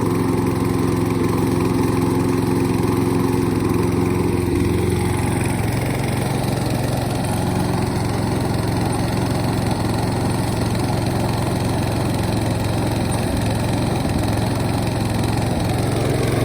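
Toro walk-behind lawn mower's small engine running steadily, its tone shifting a little about five seconds in. It is being run to dry out the cutting deck after it was washed out with water.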